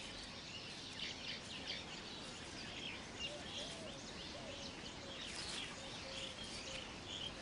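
Weaver birds chattering: many short, high chirps and twitters overlapping without pause, with a few faint, lower whistled notes.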